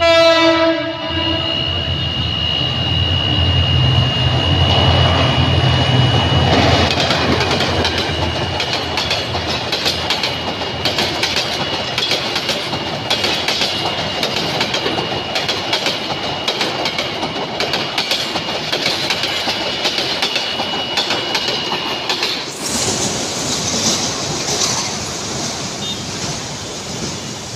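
Passenger train passing close by: a horn blast that drops in pitch at the start, then the wheels clattering rhythmically over the rail joints as the coaches go by, with a steady high whine underneath. About 22 seconds in this cuts off suddenly and gives way to a steady hiss of rain and street noise.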